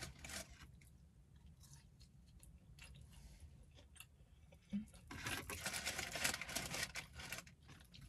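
A person chewing crunchy fried fast food close to the microphone: a few faint bites in the first half, then dense, rapid crunching from about five seconds in.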